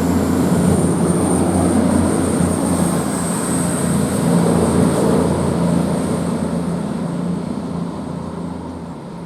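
CrossCountry Class 220 Voyager diesel multiple unit pulling away, its underfloor diesel engines giving a steady drone with a faint high whine, fading over the last few seconds as the train recedes.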